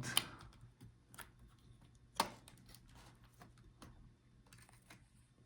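Faint scattered clicks and light taps of a laptop motherboard being handled and tried for removal from a Dell Latitude 5310's chassis, with one sharper click about two seconds in.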